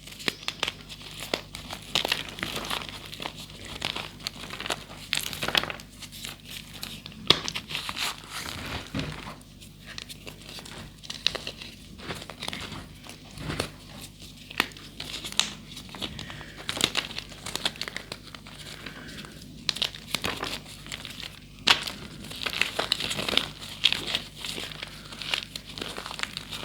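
Gym chalk, including re-formed blocks, being crushed and crumbled by hand: dense, irregular crackling and crunching with dry powdery crumbles.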